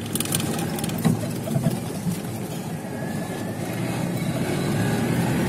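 Car engine running as the car drives slowly along, heard from inside the cabin, growing gradually louder, with a few short knocks near the start and about a second in.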